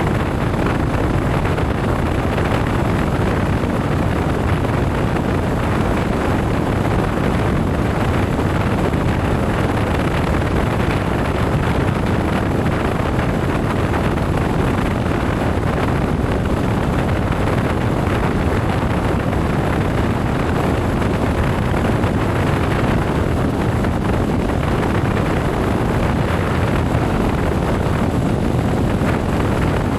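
Motorcycle on the move: steady wind rushing over the microphone, mixed with engine and road noise, without let-up.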